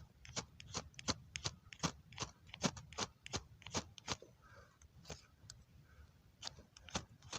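Repeated quick scraping strikes of a striker on a flint fire starter, a few a second, throwing sparks at tinder. The strikes pause for about two seconds past the middle, then a few more follow near the end.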